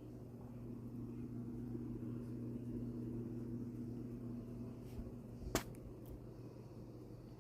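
Wind gusting against the house, a low rumble that swells and then eases, with a steady low tone while it blows; a single sharp snap about five and a half seconds in.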